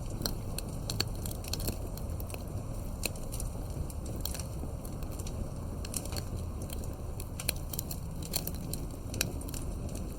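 Wood fire crackling, with sharp pops at irregular intervals over a steady low rumble of flame.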